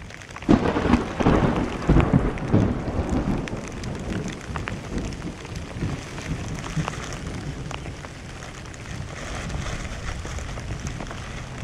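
Thunder rumbling, starting about half a second in and dying away over a few seconds, over steady rain.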